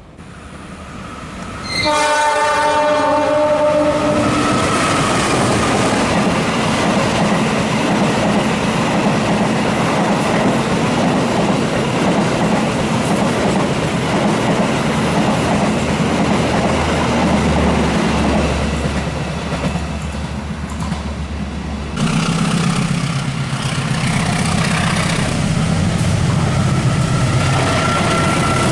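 A train's multi-tone horn sounds about two seconds in, then the train passes at speed with loud, sustained wheel and rail noise. About three-quarters of the way through, the sound changes abruptly to a steadier, lower engine hum.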